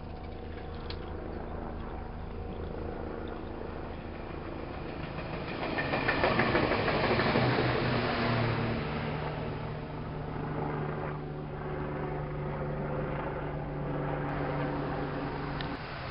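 Meitetsu electric train running by, with a steady tone and rail noise that grows louder about six seconds in.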